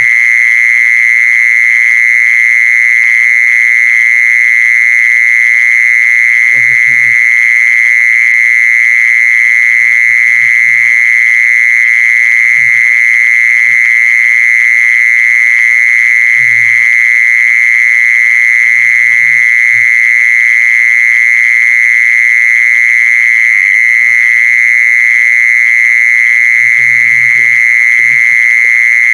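An insect's song, the Thai 'jee-son': one continuous high-pitched trill, loud and unbroken at a steady pitch. A few faint short low sounds break through now and then.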